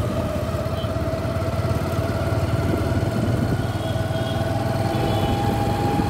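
Motorcycle engine running steadily at low speed, heard from the rider's own bike, with a pulsing low hum.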